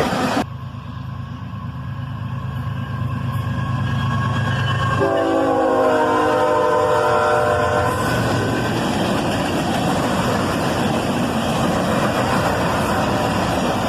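Lead EMD diesel locomotives of a freight train approaching with a steady low engine rumble. About five seconds in the horn sounds one chord for about three seconds. Then the engines and the rolling wheels of the passing train fill in as a loud, steady rumble.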